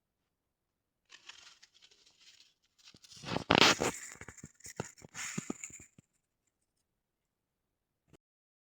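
Large plant leaves rustling and tearing: a scratchy rustle that builds to a loud tear about three and a half seconds in, followed by a run of sharp crackles that stops about six seconds in.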